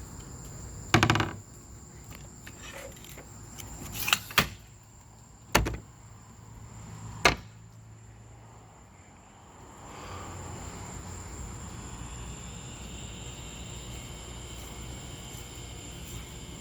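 Several sharp knocks and clicks, the loudest about a second in and the rest over the next six seconds, over a steady high whine. From about ten seconds in, a steady hiss takes over.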